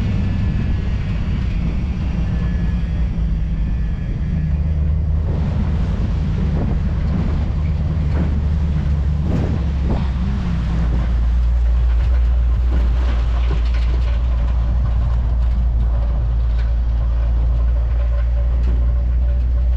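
Old Ford F-250 pickup driving on a back road, heard from its open bed: a steady low rumble of engine and road noise that grows louder about halfway through, with scattered knocks and rattles.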